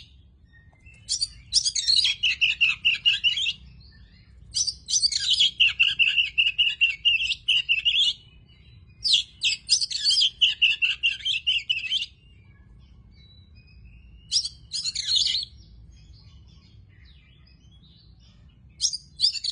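Oriental magpie-robin singing in phrases of rapid, high, varied notes, each lasting one to three seconds with pauses between, and shorter bursts in the second half.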